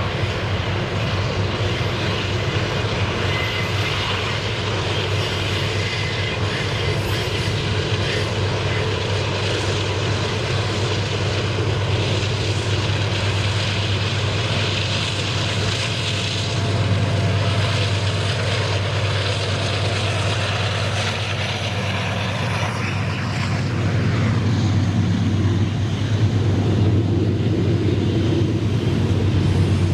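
Diesel locomotive engine running with a steady low drone, growing louder toward the end.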